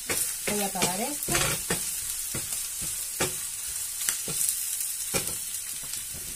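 Chopped onion and squid sizzling in a non-stick frying pan, stirred with a wooden spoon that knocks and scrapes against the pan at irregular intervals.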